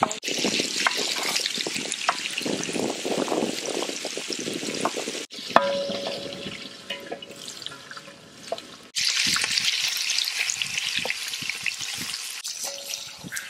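Marinated chicken pieces frying in hot oil in a large aluminium pot, a steady sizzle with soft knocks as the pieces are turned by hand. The sizzle breaks off abruptly and resumes three times.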